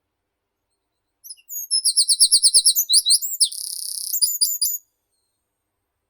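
A songbird sings one phrase lasting about three and a half seconds: a fast run of repeated high notes, then a short buzzy trill, then a few quick notes to finish.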